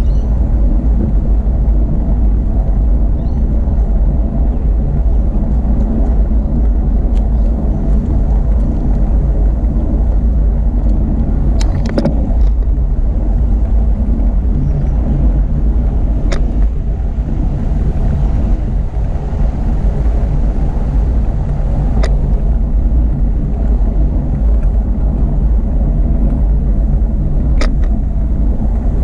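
Steady low rumble of a bicycle ride: wind buffeting the microphone over tyre noise on the path, with a handful of sharp ticks or knocks.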